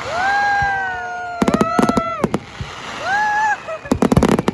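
Fireworks finale: two clusters of rapid sharp cracks, a second and a half and about four seconds in, with long whistling tones that sweep up and hold between them.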